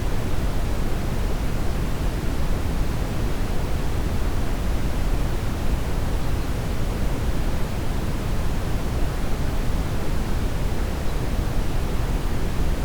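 Steady brown noise: an even, deep rushing hiss, strongest in the low end and unchanging throughout.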